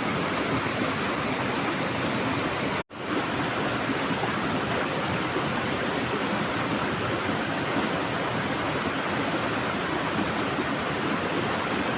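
Waterfall pouring: a steady rushing of falling water, broken by a brief total cut-out about three seconds in.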